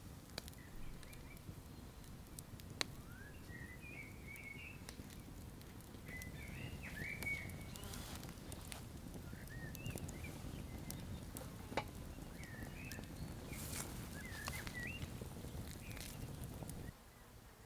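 Small birds chirping repeatedly over a wood fire, with scattered crackles and a steady low rumble that cuts off abruptly near the end.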